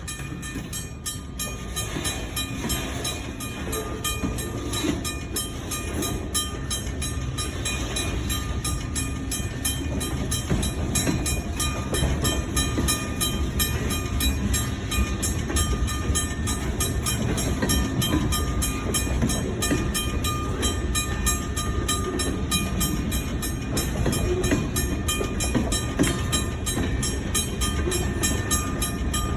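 Train shoving its cars backward in a pushback move, with steady rolling rumble. It grows louder over the first several seconds, then holds steady.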